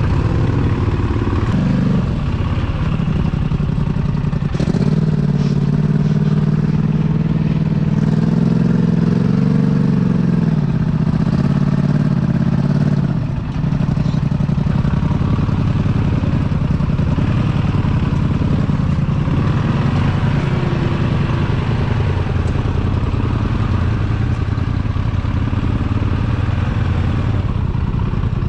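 Big mega truck engine running hard, its revs rising and falling, dropping off briefly about halfway through, then picking up again.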